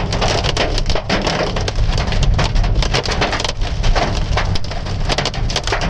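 Hailstones pelting a car's windscreen and roof in a heavy hailstorm, heard from inside the car as a dense, rapid, irregular clatter of hits over the rush of rain.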